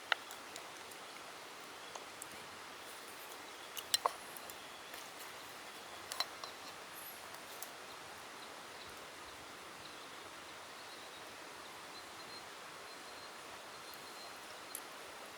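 Quiet outdoor ambience: a steady soft hiss with a few short sharp pops or clicks scattered through it.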